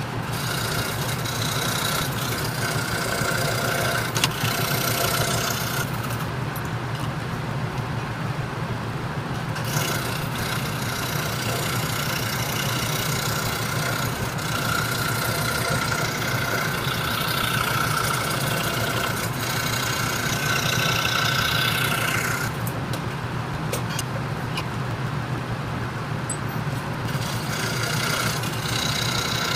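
26-inch RBI Hawk scroll saw running steadily, a 5-0 skip-tooth blade cutting Baltic birch plywood. The hiss of the cut comes and goes, dropping away twice for a few seconds while the motor hum carries on.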